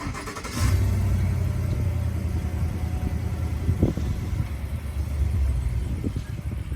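Car engine running close by, a steady low rumble that starts about half a second in.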